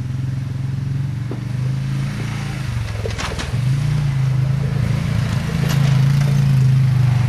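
Riding lawnmower engine running steadily, getting louder as it approaches, with a brief rattle about three seconds in.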